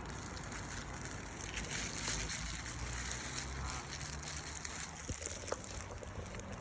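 Steady outdoor noise, a hiss like running water or wind, with a faint short call a little over halfway through.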